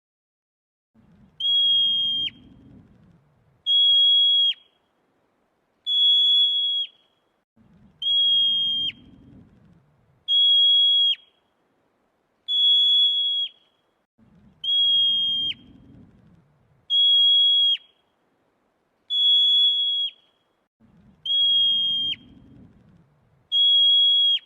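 A high, steady whistle-like tone, repeated eleven times about every two seconds; each note lasts about a second and ends in a quick drop in pitch. A faint low rustle sits under about every third note.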